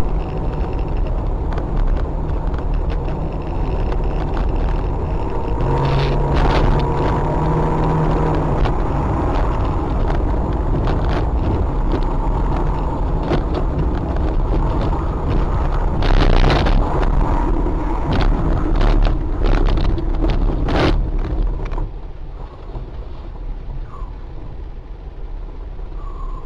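A car driving, with steady road and engine rumble and several sharp knocks or bangs, the loudest about sixteen seconds in. The noise drops off about twenty-two seconds in.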